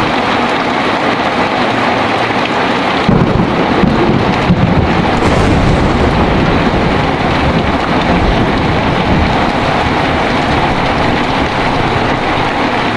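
Heavy rain falling steadily. About three seconds in, a deep rumble of thunder comes in suddenly and rolls on for several seconds, slowly dying back under the rain.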